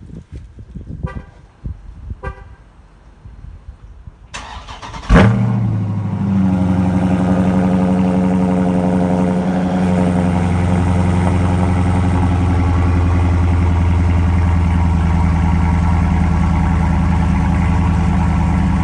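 Stock 2018 Dodge Charger Scat Pack's 6.4-litre (392) HEMI V8 cold-started. After a brief crank about four seconds in, it flares loudly as it catches, then settles into a steady fast cold idle. Two short tones sound before the start.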